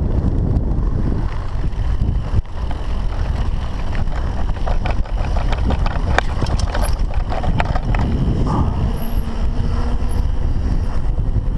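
Mountain bike being ridden over rough ground: a steady rumble of wind on the microphone with frequent rattles and knocks from the bike.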